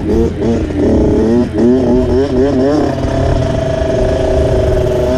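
Dirt bike engine revving up and down repeatedly as the throttle is worked, then holding steady revs for about the last two seconds.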